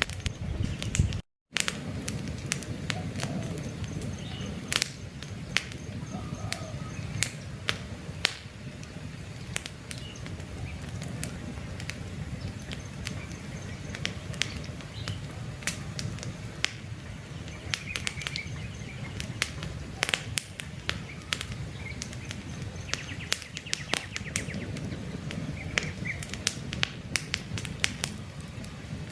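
Campfire crackling with frequent sharp pops over a low steady rustle of burning wood, with small birds chirping now and then. The sound drops out completely for a moment about a second in.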